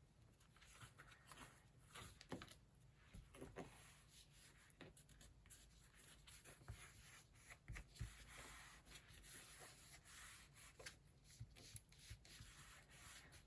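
Faint rubbing and scratching of hands smoothing glued fabric down onto a book cover, with scattered light taps.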